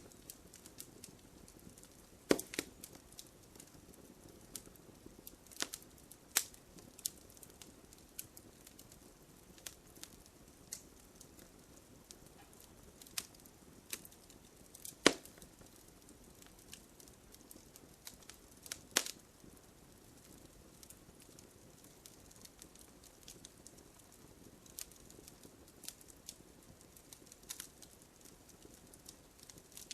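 Wood bonfire crackling: irregular sharp pops and snaps over a faint low hiss, with three louder snaps, about two seconds in, about halfway through and a few seconds later.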